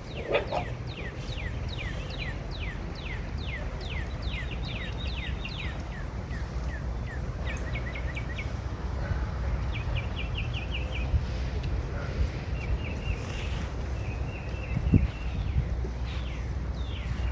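A songbird singing: a long run of quick, downward-sliding whistled notes, about three a second, then several shorter, faster trills and a few steady notes, over a steady low outdoor rumble. A single sharp knock comes near the end.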